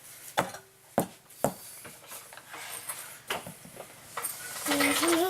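Sharp metallic clicks and knocks, about five spread over a few seconds, from tools and metal parts being handled while fitting a bolt into the ATV's rear shock mount.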